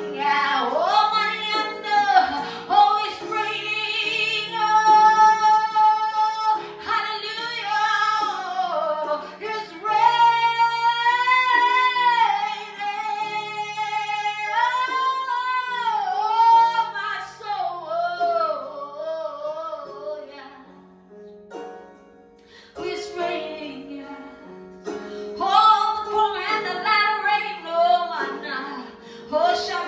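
A woman singing a slow gospel worship song over steady instrumental accompaniment. She holds long, wavering notes and slides between pitches, and the music drops briefly quieter a little past two-thirds of the way through.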